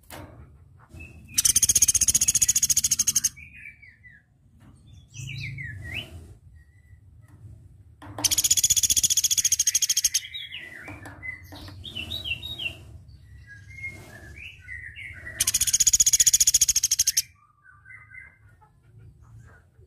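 Platuk beras bird singing: three loud, very high, rapid trills of about two seconds each, with softer short chirps between them.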